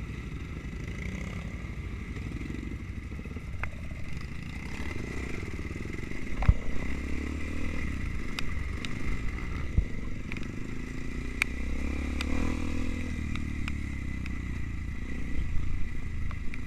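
Trail motorcycle engine running at low revs, getting louder about six seconds in, with a few sharp clicks and knocks from the bike rattling over rough ground.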